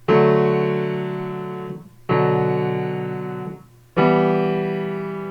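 Piano playing three chords, struck about two seconds apart, each left to ring and fade. This is the minor version of the song's third chord, which turns out to be the right one.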